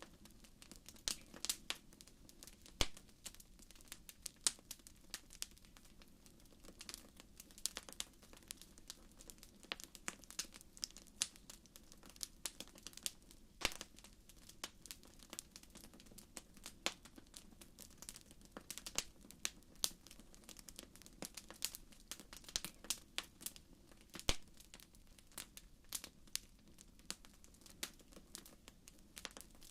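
Wood fire crackling in a fireplace: irregular sharp pops and snaps over a faint steady low rush of the flames.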